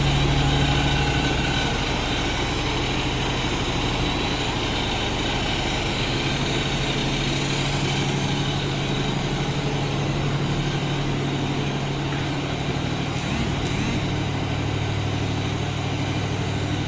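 Steady machinery drone in a ship's steering gear room, with the steering hydraulic pump running under the constant hum of the vessel's engines.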